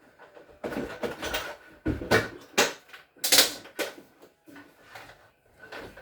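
Irregular clattering and knocking of hard objects being handled, a cluster of sharp knocks and rattles in the first four seconds, then fainter taps.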